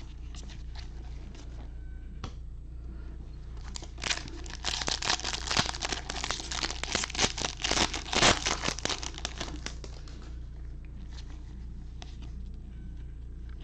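Foil wrapper of a Bowman baseball card pack being crinkled and torn open by hand, a dense crackling that builds about four seconds in and dies away about ten seconds in, with lighter rustles around it.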